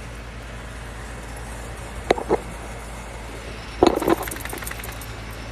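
Car engine idling steadily. About two seconds in there are two sharp clicks, and about four seconds in a louder clatter with a brief metallic jingle.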